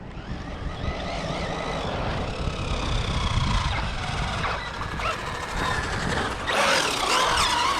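Electric RC cars driving on pavement: motor whine rising and falling with throttle over tyre noise, getting louder in the last second or so.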